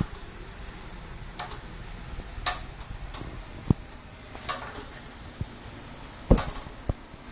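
Water drops falling irregularly onto a hard surface, as sharp scattered taps and knocks with no steady beat, over a faint steady hiss of rain. The loudest is a low knock about six seconds in.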